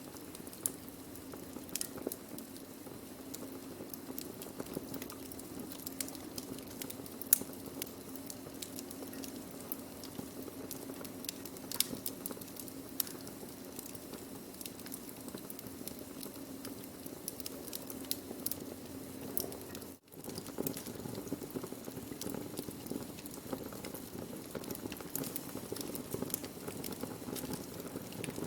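Wood fire burning: a steady low rush with frequent sharp crackles and pops. The sound drops out for an instant about two-thirds of the way through.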